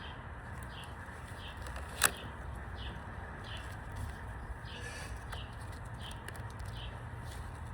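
A bird chirping over and over, about three short chirps every two seconds, over a low steady outdoor rumble. One sharp snap comes about two seconds in.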